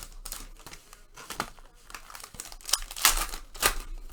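Trading card pack wrappers crinkling and tearing as packs are opened and handled, in a run of short rustles, loudest about three seconds in.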